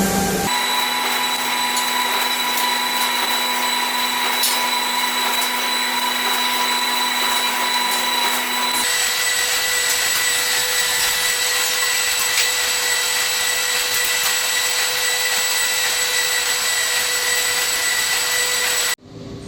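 Electric power tool running steadily with a whine. The whine shifts to a higher pitch about nine seconds in, and the sound cuts off abruptly near the end.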